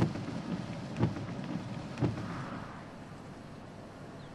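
Rain on a car's windshield with the wipers thumping about once a second; a little over halfway through it drops to a quieter, even hiss.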